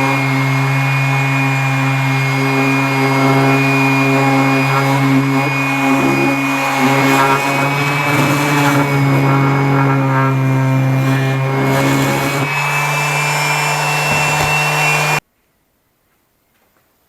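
Electric power tool motor running steadily with a rough grinding noise over it, cutting off abruptly near the end.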